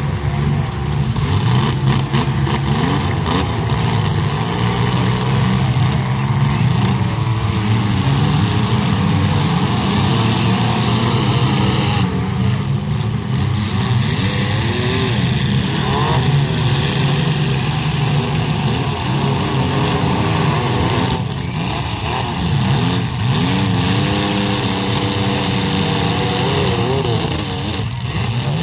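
Several compact demolition-derby cars' engines running and revving at once, their pitch rising and falling. A few sharp knocks sound through them, from cars colliding.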